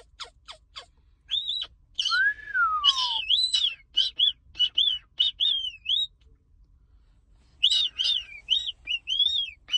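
Moluccan cockatoo chirping and whistling: a string of short, high, arched chirps, with one longer falling whistle about two seconds in. The chirps pause for a second or so, then start again.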